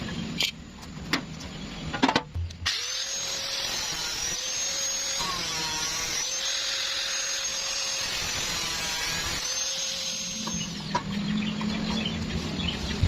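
A small electric power tool runs steadily for about eight seconds and then stops, after a few clicks and knocks.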